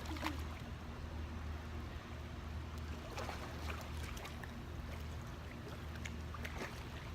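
Poolside water ambience: faint moving water over a steady low hum, with a few soft knocks.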